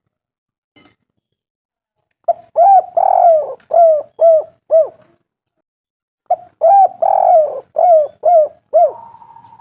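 Spotted dove cooing: two song phrases a few seconds apart, each of about five coos, with a longer coo second in the phrase. A faint steady tone follows near the end.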